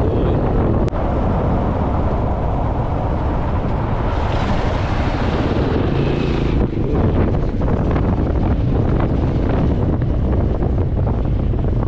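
Wind rushing over the microphone on a moving motorbike, a steady low rumble. About four seconds in, a brighter hiss rises for a couple of seconds.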